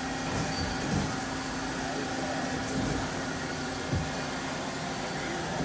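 1998 Mazak Quick Turn 30 CNC lathe running with a steady mechanical hum, and two soft low knocks about a second and about four seconds in.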